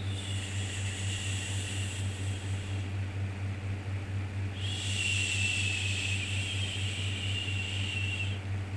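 Long "shhh" shushing sounds repeated over a steady low hum, as used to soothe a baby: one shush runs for the first few seconds and stops, and after a short pause another is held for about four seconds.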